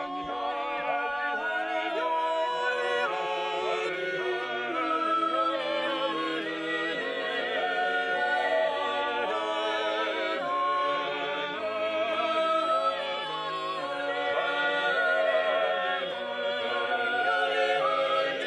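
A choir singing sacred music a cappella, several voice parts holding long notes with vibrato.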